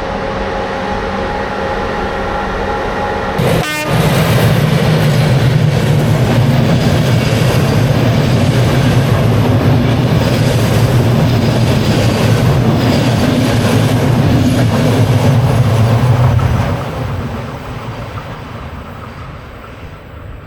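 A train passing close by. A loud, steady rumble of wheels and engine sets in abruptly about four seconds in and fades away over the last few seconds.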